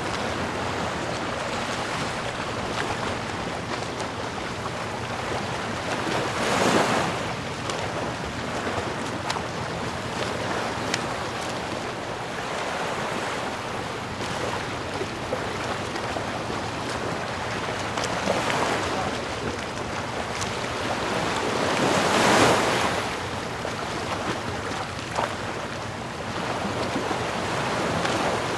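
Sea waves: a steady rush of surf, with waves swelling and breaking about 7 seconds in, again near 18 seconds, and loudest about 22 seconds in.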